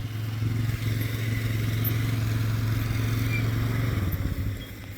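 Engine running steadily with an even low hum, dipping briefly about four and a half seconds in.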